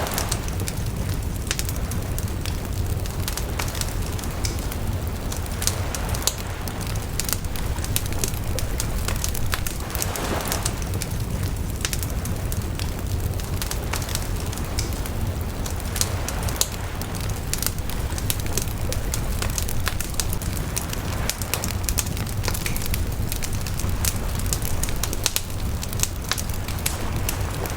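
Wood bonfire crackling, with frequent sharp pops over a steady low rumble and now and then a brief rush of hiss.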